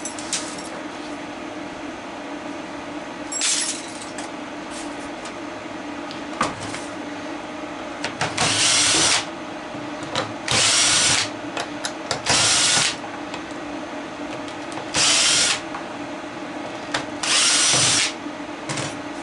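Power drill running in six short bursts of about a second or less each, backing screws out of a plastic housing.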